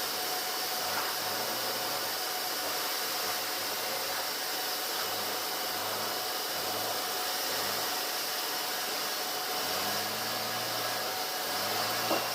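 Steady machine noise, an even hiss with a faint steady whine, with a single short knock near the end.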